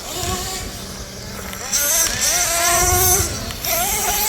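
Small nitro engines of RC monster trucks revving up and down at high pitch, with a long burst of high revs about two seconds in and another near the end.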